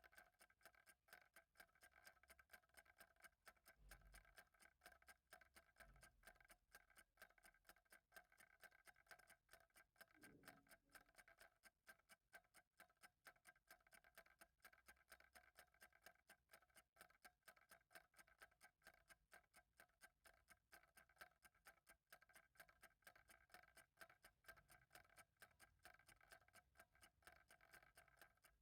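Faint, steady ticking of a clock, in even rapid ticks, with a couple of soft low thumps in the first few seconds.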